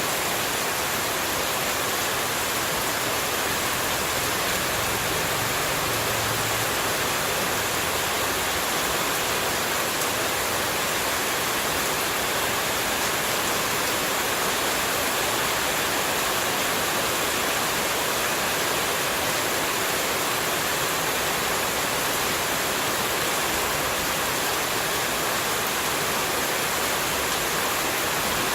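Running water rushing steadily: an even, hissing white noise with no breaks or changes.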